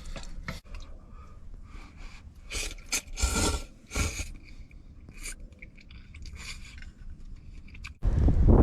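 Small scrapes and clicks of utensils and containers being handled while seasoning a pot of noodles. Near the end, strong wind buffets the microphone.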